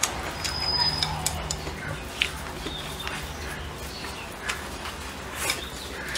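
Close-up chewing and lip-smacking of braised pig's trotter and rice, with scattered short sharp clicks.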